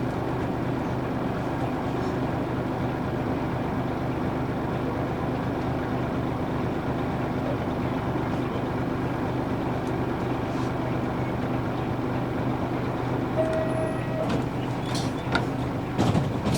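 Interior sound of a Nissan Diesel U-UA440HSN city bus with its PF6 diesel engine running steadily at an even speed, heard from inside the cabin. A short high tone sounds about 13 seconds in, and a few clicks and knocks come near the end.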